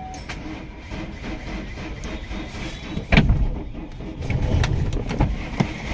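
Chevrolet Cruze engine started with the push-start button: it cranks and catches about three seconds in, then runs at a steady idle.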